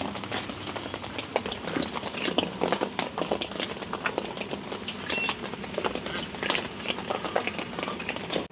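Rain falling on a tent, heard from inside as a dense, irregular spatter of drops.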